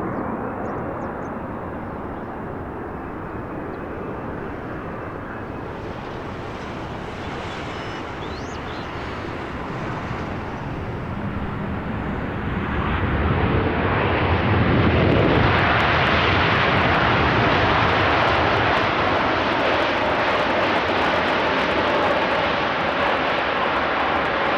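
Aircraft engines near an airport runway, growing louder about halfway through and then running loud and steady as an airplane passes close by.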